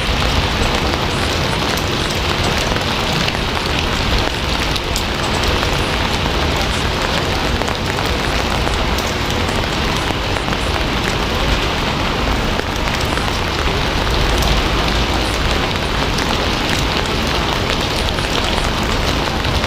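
Steady rainfall: a dense, even hiss of rain with many fine drop patters.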